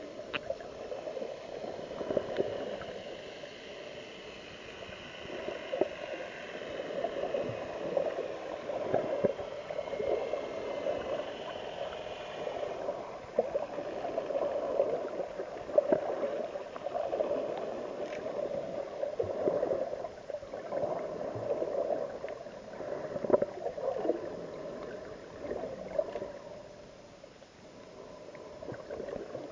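Water gurgling and sloshing in irregular surges, with no speech.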